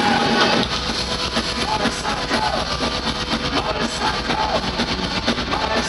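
Heavy metal band playing live: electric guitar lead with bending notes over drums and bass guitar.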